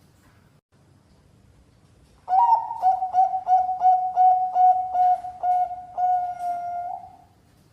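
Bangkok-type perkutut (zebra dove) cooing song: after about two seconds of quiet, a quick run of about a dozen short coos at about four a second, all on one pitch, ending in one longer drawn-out coo.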